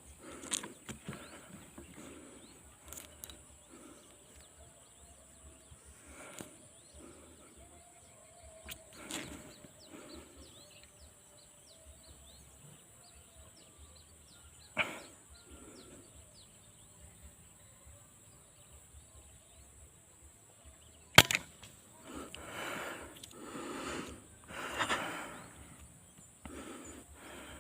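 Outdoor ambience with a steady high insect-like hiss and scattered small bird chirps. About 21 seconds in, one sharp, loud gunshot crack from a hunting rifle cuts through, followed by rustling and handling noise.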